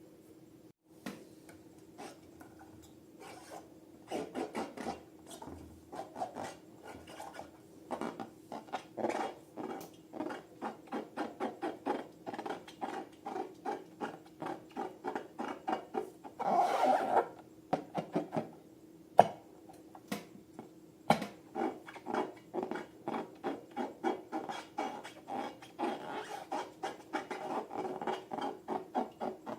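Sticky slime being worked by hand, making rhythmic wet crackling squelches about two to three times a second, with one longer, louder squish about halfway through.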